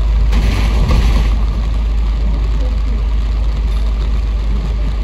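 Inside a Kowloon Motor Bus: the bus's engine and running noise, a steady low rumble. A brief hiss cuts in about half a second in and lasts about a second.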